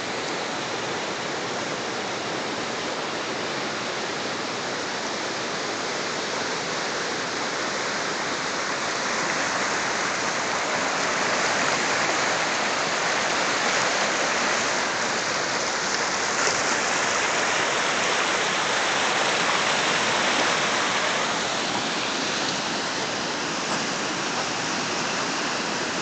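A river in flood rushing through a gorge: a steady churning rush of fast water, a little louder through the middle.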